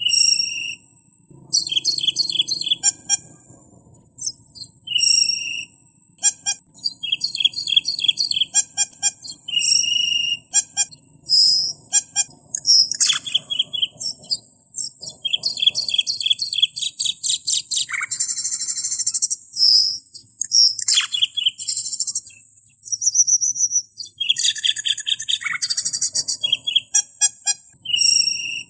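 Camperling bird singing: fast runs of high-pitched chirps and trills in short repeated phrases, broken by brief pauses.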